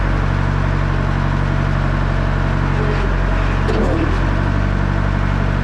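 1967 JCB 3C Mk 2 backhoe loader's diesel engine running steadily, with a brief dip in pitch about four seconds in.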